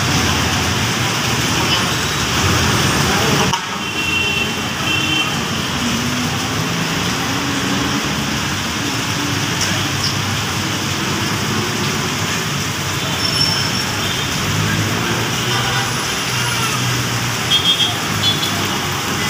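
Steady wash of heavy road traffic and rain on a busy city avenue, with short vehicle horn toots, including a quick triple toot near the end.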